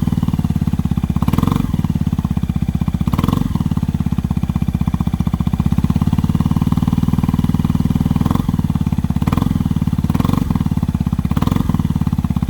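Yamaha Maxam scooter's single-cylinder engine idling steadily through a Dark Horse aftermarket muffler with its baffle fitted, an even, fast exhaust pulse with a few short swells.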